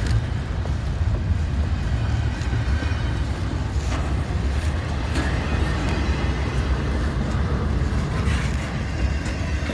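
Freight train rolling by with a steady low rumble and a few sharp clanks from the wheels and cars.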